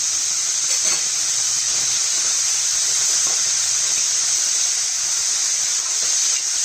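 Cut beetroot sizzling in hot oil in a kadai: a steady hiss.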